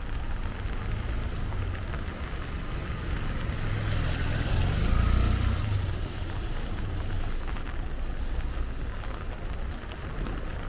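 Steady rain-soaked street noise with a low rumble, and a vehicle passing on the wet road, loudest about four to six seconds in, its tyres hissing on the water.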